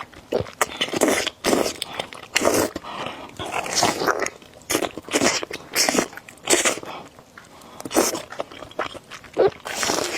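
Close-miked eating sounds of someone eating noodles: repeated chewing and biting noises, about one or two a second, some of them crunchy.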